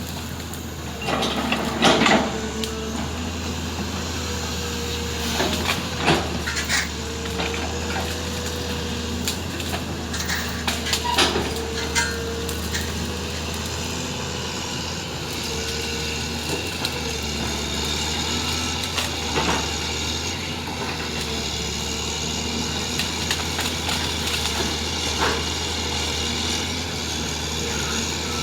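Heavy diesel engine running steadily, with a few sharp metal clanks and knocks scattered through it.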